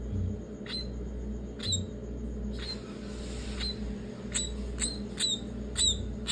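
Pet myna bird giving short, sharp squeaky calls, about one a second at first and then quicker, about two a second, in the second half. A brief hiss comes about halfway through.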